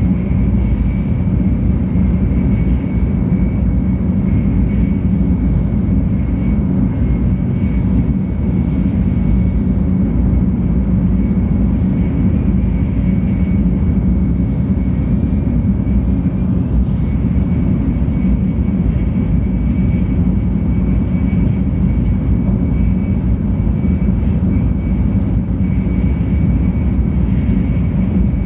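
Cabin noise inside a 700 series Shinkansen running on the Tokaido line: a steady, loud low rumble with a faint high whine over it.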